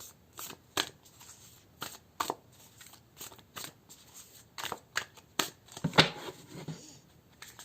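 A deck of animal-spirit oracle cards being shuffled by hand: a string of short, irregular card snaps and slaps, the loudest about six seconds in.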